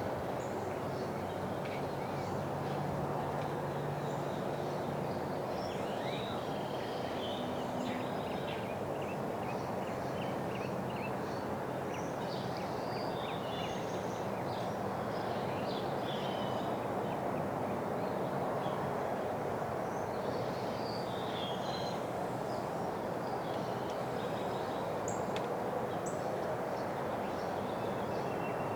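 Small birds chirping in short, high calls over and over, over a steady low rumble of outdoor background noise.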